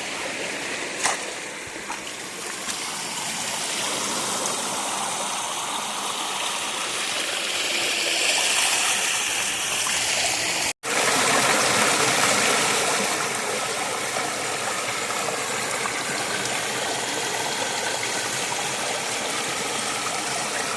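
Steady rushing of flowing stream water, with a momentary cut-out about halfway through.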